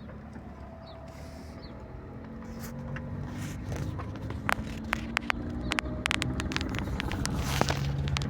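A motor vehicle's engine running and growing louder, with sharp clicks and knocks over the second half.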